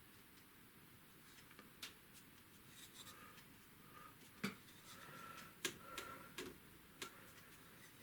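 Near-silent room with a few faint, sharp taps and clicks and some brief light scraping from watercolour painting work: brush and painting tools against paper, palette and pots.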